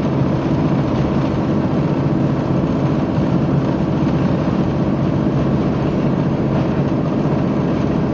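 A diesel train running steadily, heard from inside the carriage: a continuous engine drone mixed with the rumble of wheels on rails.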